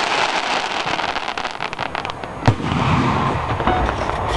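Fireworks going off: a dense crackle of many small pops, with one sharp boom about two and a half seconds in.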